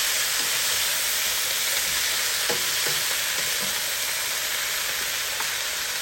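Pan of stir-fry vegetables, onions and potatoes, sizzling steadily as they cook, with a few faint taps about halfway through.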